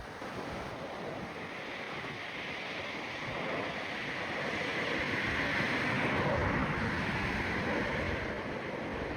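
Jet noise from a Boeing 777 freighter's two GE90 turbofans as it comes in to land: a broad, steady rushing noise with a low rumble that grows louder, peaks about six seconds in, then eases a little.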